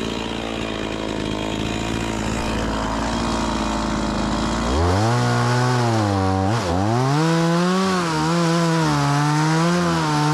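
Stihl MS 180 C-BE two-stroke chainsaw idling steadily, then throttled up about four and a half seconds in. Its revs stay high and waver up and down, with one brief dip.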